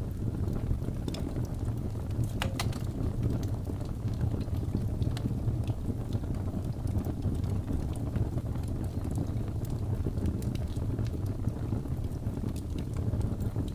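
Wood fire burning: a steady low rumble of flames with scattered small crackles and pops, a sharper pop about two and a half seconds in.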